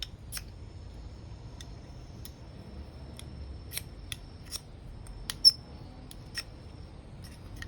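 Short, sharp scrapes of a steel edge, repeated irregularly about once or twice a second, with one louder stroke about five and a half seconds in. This is hand work to light a fire: carving a feather stick or striking a fire-starter rod.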